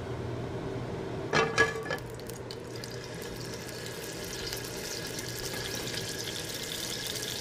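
Pancetta-draped sea scallops sizzling as they are set into hot oil in a nonstick frying pan, the sizzle building toward the end. A brief clatter comes about a second and a half in.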